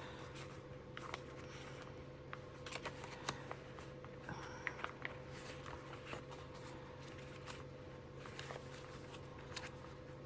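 A pocket notebook and its paper inserts being handled: soft rustles and light clicks, scattered irregularly, over a steady low hum.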